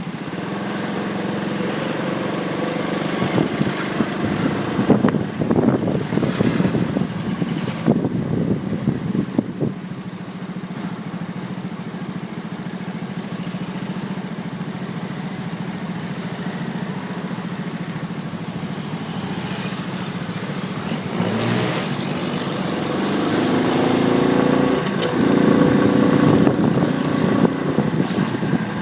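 Motorcycle engine running on the move, recorded by a phone mounted on the bike, over steady road and wind noise. The engine note rises and falls, getting louder for several seconds early on and again near the end.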